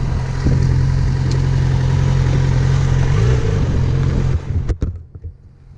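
Yamaha FZ6R's inline-four engine running at low speed, with a brief rev about three seconds in. Near the end the engine note drops away suddenly and two sharp clicks follow.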